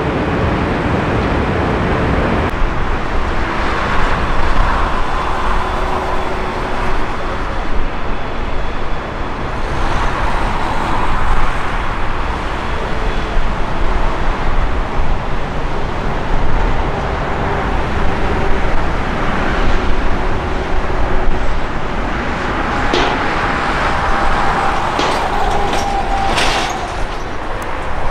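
Airliner jet engines running with a steady, loud rush that swells and fades slowly. Several sharp clicks come near the end.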